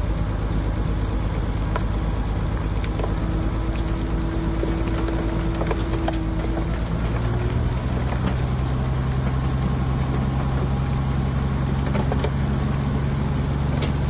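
Heavy diesel engine of an earthmoving machine running steadily. Its note changes about seven seconds in, with scattered light clanks over it.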